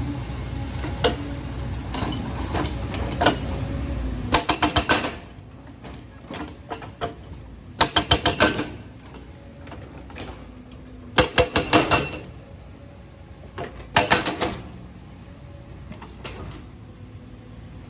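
Excavator at work: the engine runs steadily, with four short bursts of rapid metallic clanking about three seconds apart. The engine drops in level about four seconds in.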